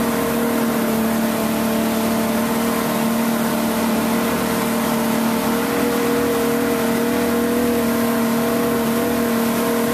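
Motorboat engine running at a steady speed, an unchanging drone over a constant rushing noise.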